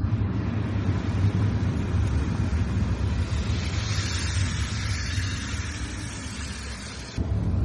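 A car driving on a wet road: a steady low road rumble, with a hiss from the wet surface that swells about halfway through and cuts off abruptly near the end.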